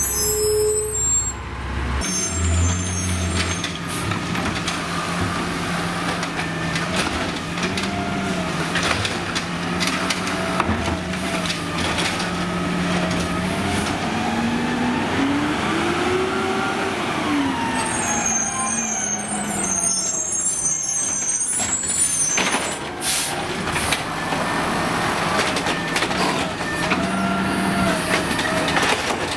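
Diesel engine of an Amrep automated side-loader garbage truck running. It revs up through the middle and settles back down, with a hiss of air about two-thirds of the way through and scattered clunks.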